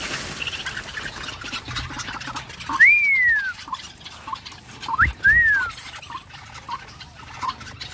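Caged birds calling: short peeps repeating about every half second, and two clear whistles that rise and then fall in pitch, about three and five seconds in. A couple of low thumps are also heard.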